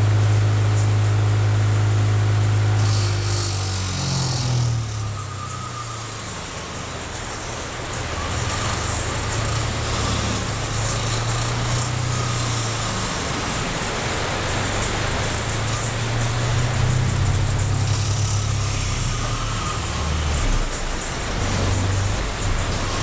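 Bench grinder with a wire wheel: its electric motor hums steadily, then from about three seconds in the wheel is pressed against rusty steel with a scratchy brushing noise. The hum drops and wavers as the motor is loaded down, a bench grinder that stalls when pressed hard.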